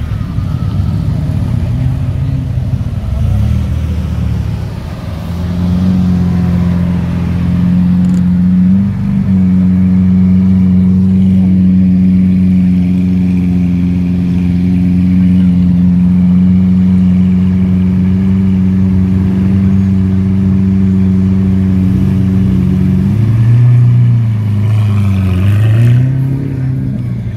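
Car engines running loudly. From about five seconds in, one engine holds a steady, even speed for a long stretch, and near the end it is revved up and down.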